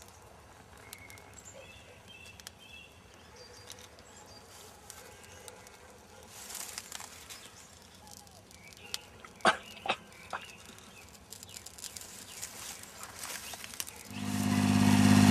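Quiet outdoor background with faint chirps and a couple of brief sharp sounds about halfway through. Near the end a tractor engine comes in, rising over about a second to a loud steady run.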